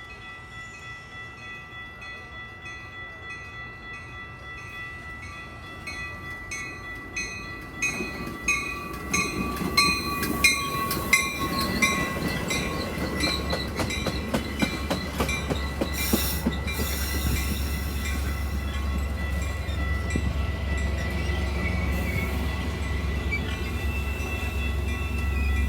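Railroad grade-crossing warning bells ringing at an even beat as a train approaches and passes. The rattle of wheels over rail joints builds about eight seconds in, and a heavy low rumble from the train takes over from about halfway through.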